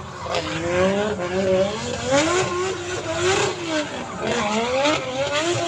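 Car engines revving, their pitch rising and falling several times in smooth sweeps.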